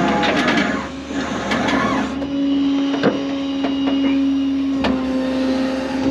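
Tow truck machinery running with a steady whine. It rattles over the first two seconds, and a few sharp metallic clanks come about three, five and six seconds in.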